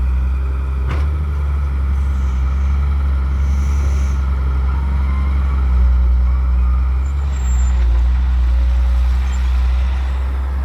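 Heavy diesel engine running steadily at an even speed, a low constant drone with no change in pace.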